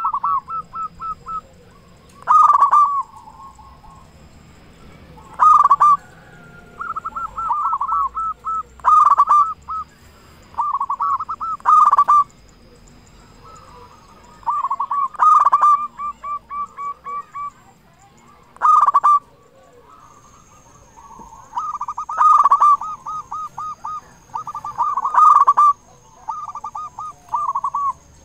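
Zebra dove (perkutut) cooing over and over in a loud voice: a strong coo phrase about every three seconds, with runs of quick, short notes between the phrases.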